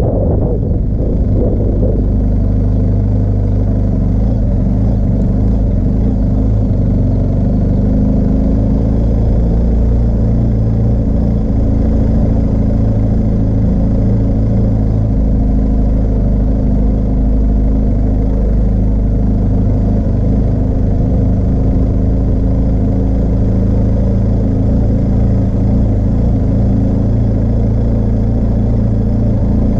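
BMW R1250 GS Adventure motorcycle's 1254 cc boxer-twin engine running at low, steady revs while the bike rolls slowly along; a low, even engine note that barely changes.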